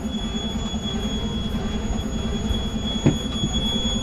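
Heavy truck's diesel engine running with an even rhythmic throb under a steady high-pitched whine, and a single short knock about three seconds in.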